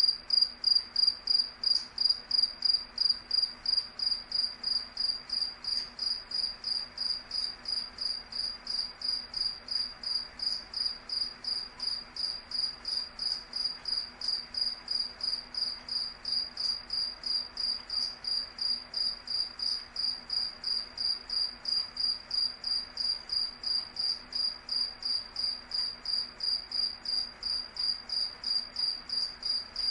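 A cricket chirping steadily: a high, even, rapidly repeated chirp at about three chirps a second.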